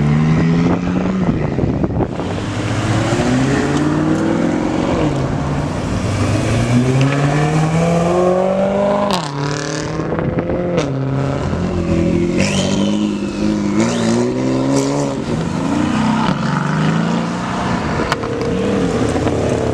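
Supercar engines running and being revved as the cars drive in, the pitch climbing and dropping with each blip of the throttle, with a few sharp cracks around the middle.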